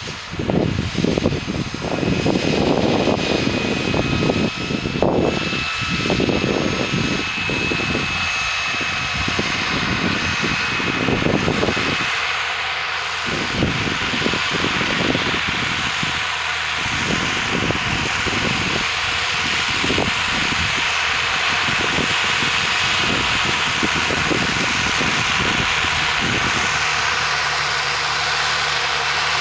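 Milling machine running and cutting: a steady high whine over an uneven low rumble that grows steadier after about twelve seconds.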